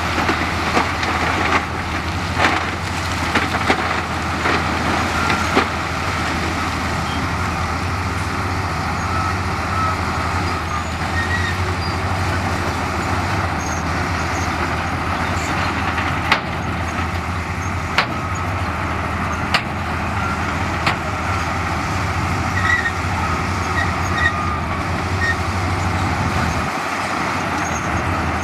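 Heavy diesel earthmoving machinery running steadily, with sharp knocks and clanks now and then.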